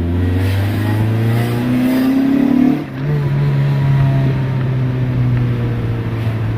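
Honda D16 four-cylinder engine in a 1991 Civic accelerating under load, its revs climbing for about three seconds. A brief dip near the three-second mark, as at a gear change, and then the engine pulls on at a steady, slowly easing note.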